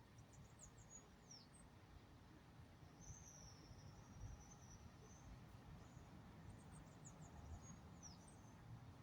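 Faint, high-pitched bird song: a quick run of chips ending in a falling note, then a thin wavering note, then the same chip-and-fall phrase again.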